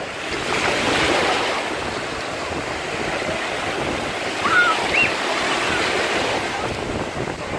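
Sea surf washing on a beach, a steady rush of breaking waves, with brief high-pitched children's voice sounds a little past the middle.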